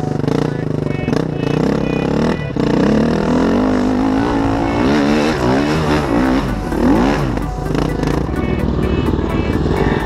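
Four-stroke dirt bike engine revving, its pitch rising and falling repeatedly as the throttle is worked, with music playing along.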